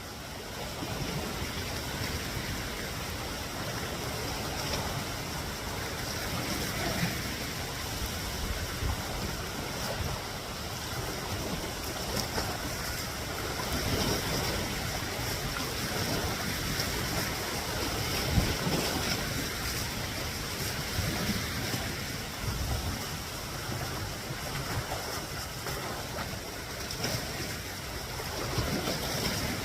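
Small waves washing against the reservoir shore, with wind gusting across the microphone.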